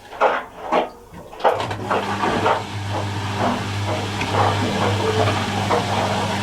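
Miele Little Giant PWM507 commercial washing machine in the final-spin stage of a woollens programme. The drum motor's steady hum cuts out briefly near the start and picks up again about a second and a half in, with repeated soft knocks from the machine throughout.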